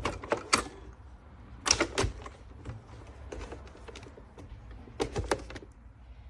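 Sharp plastic clicks and knocks from a Nespresso Vertuo Next coffee machine being handled. They come in three clusters: at the start, about two seconds in and about five seconds in, over a low steady hum.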